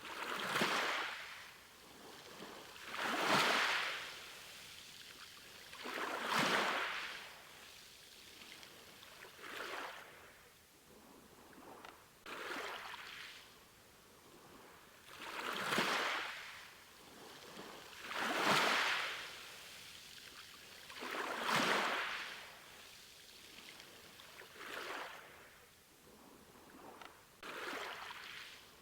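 Small sea waves washing onto a shore: a hissing surge that rises and falls away about every three seconds.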